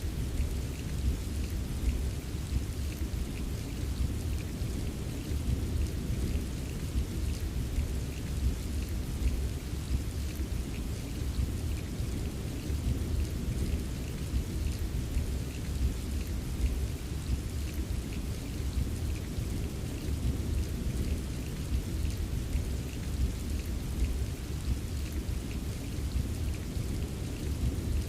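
Steady rain with a continuous low rumble of thunder beneath it, and fine scattered raindrop taps.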